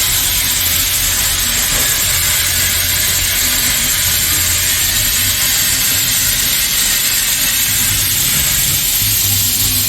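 ELI 4-4-0 narrow-gauge steam locomotive giving off a steady, loud hiss of steam over a low rumble.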